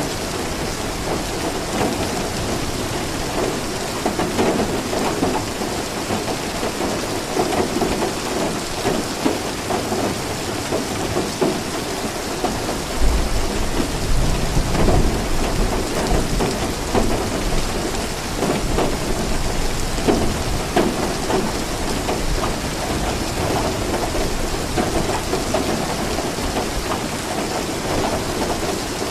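Steady rain falling, with a low rumble of thunder about halfway through.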